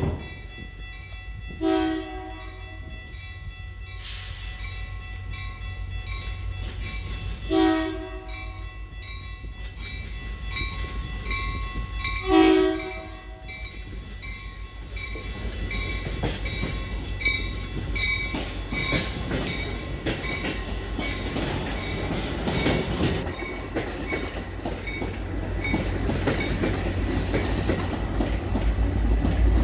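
Metra commuter train approaching: its horn sounds three short blasts about five seconds apart. The rumble of the train then builds steadily as the bilevel cars roll past close by.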